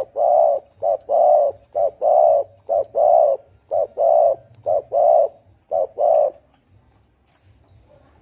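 Spotted dove cooing in a deep, hoarse voice: a repeated phrase of a short note followed by a longer one, about one pair a second, stopping a little after six seconds in.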